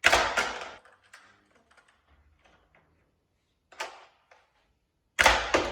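Two short, loud bursts of handling noise about five seconds apart, with faint clicks between: toy pieces and packaging being handled during unboxing.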